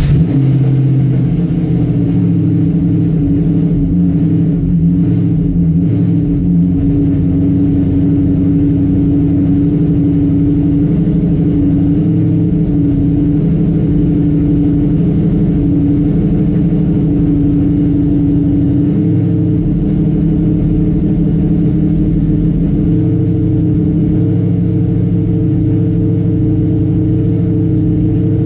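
Supercharged, cammed Ford Coyote V8 with a Whipple supercharger idling steadily, which the owner thinks is missing on a cylinder.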